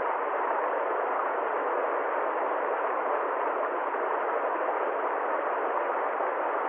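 Steady, unchanging rushing noise with no rhythm, tones or breaks, cut off sharply at the low and high ends.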